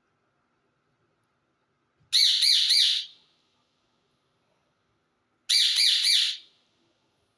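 Pet parrot squawking: two loud bursts, each of three quick harsh calls, about three seconds apart.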